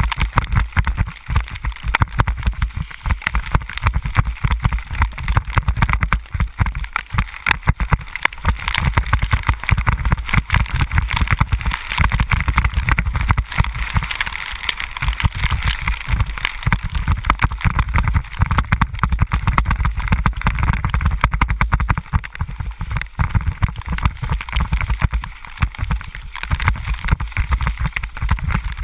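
Wind buffeting the microphone on a moving ride, with a steady hiss of tyres on a wet, rain-soaked road.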